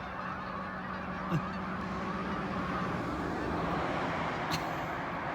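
A large flock of geese honking together in a dense, continuous chorus as the startled birds take flight.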